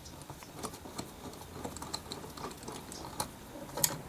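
Phillips screwdriver tightening the screw in a car door panel's pull cup: a run of small, irregular clicks and scrapes of the driver and plastic trim, with one sharper click near the end.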